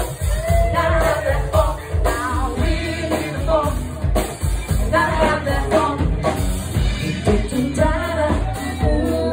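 Live band playing a funk mash-up with a lead singer over a steady bass and drum beat.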